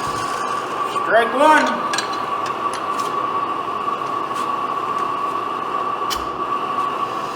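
Steady hiss with a whistle-like tone, typical of a burner heating the engine's hot-tube ignition. About a second in, a brief rising-and-falling squeak or voice sound is heard, along with a few scattered clicks.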